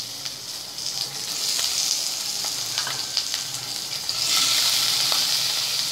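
Prawns sizzling as they are dropped into hot mustard oil in a frying pan, with scattered crackles. The sizzle grows louder a little past four seconds in, as a handful more go into the oil.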